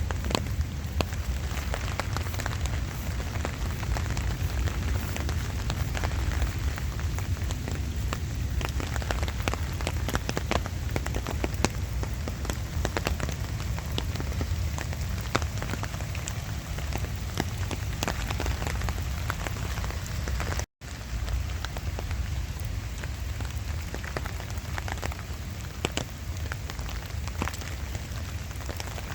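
Light rain falling steadily, with many small drop clicks, together with the footsteps of someone walking. The sound drops out for an instant about 21 seconds in.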